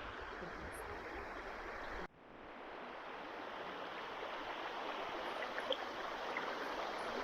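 Steady rushing noise with no clear pitch, like running water. It cuts out abruptly about two seconds in, then fades back up and runs on.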